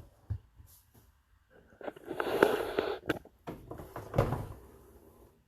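Handling noise from the dishwasher being worked by hand: a rattling scrape lasting about a second, starting about two seconds in, then a shorter knock and rattle about four seconds in.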